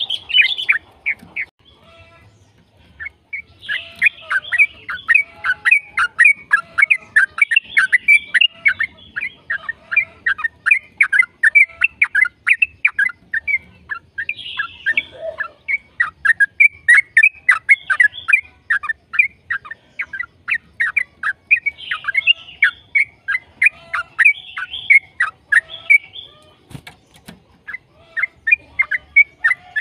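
Yellow-vented bulbul (trucukan) singing a long, rapid run of chattering notes, about four a second, with short breaks about two seconds in and near the end.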